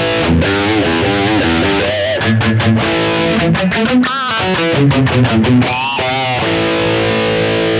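High-gain distorted electric guitar riff played through a Boss GT-1000 preset built on its Brit stack amp model, voiced like a Marshall JVM. Short low chugging notes alternate with higher held notes that waver and bend in pitch.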